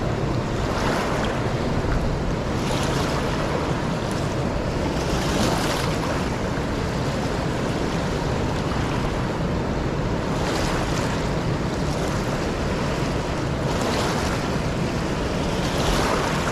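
Fast, high river water rushing steadily, with wind noise on the microphone.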